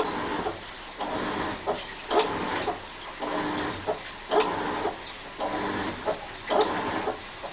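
Washing machine agitating, making a strange rhythmic squeaking groan on each back-and-forth stroke, roughly once a second, every other stroke louder.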